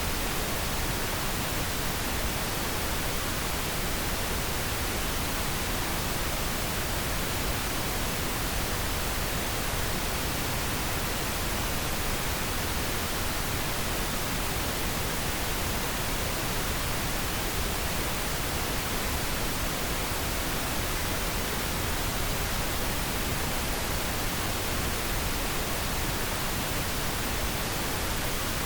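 Pink noise: a steady, even hiss across the whole range from deep to high, with no changes.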